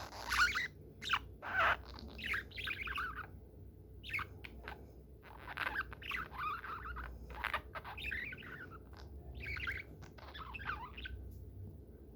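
Budgerigar chattering and chirping in a run of quick warbling bursts, with a few short sharp clicks in between.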